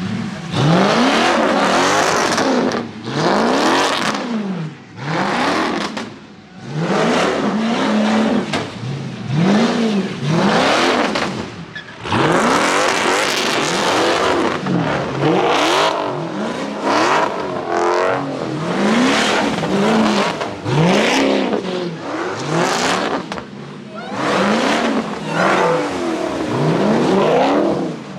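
Car engine revving hard again and again, its pitch rising and falling every second or two, with tyre and spray noise, as a car spins donuts in a pit.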